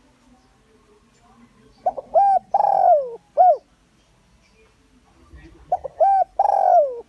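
Spotted dove cooing: two calls about four seconds apart, each a few quick short notes followed by a long, falling coo. It is a lure bird's call, used to draw wild males in to fight.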